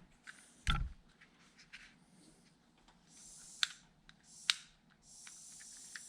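A knock, then a butane torch's gas hissing on in short spurts with sharp igniter clicks about a second apart, as the torch is lit to shrink heat-shrink tubing over a crimped wire connector.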